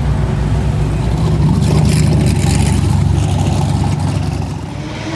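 Car engine running hard at speed, growing louder about a second and a half in and falling away near the end, as a car passes during racing.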